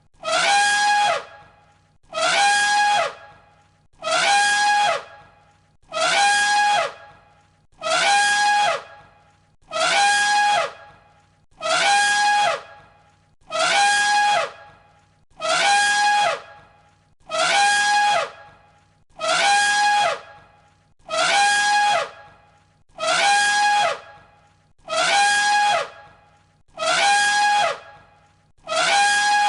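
Elephant trumpeting: the same call, about a second long, repeats roughly every two seconds, each one identical, as a loop of a single recording.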